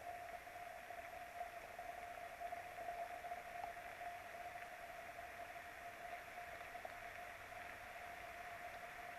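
Steady hiss of rain, with a constant mid-pitched hum running underneath.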